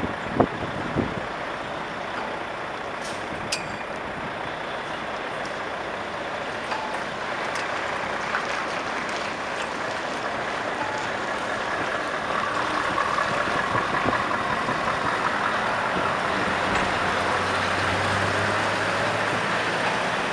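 Scania R580 V8 truck running, heard mainly as a steady rushing noise that grows louder in the second half, with a few light clicks early on.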